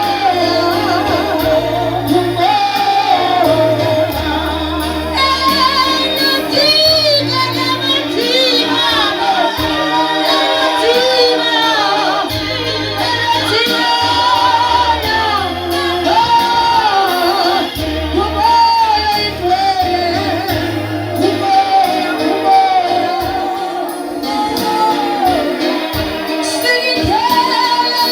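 Gospel praise and worship song: voices singing a wavering melody over an electronic keyboard holding sustained low bass chords.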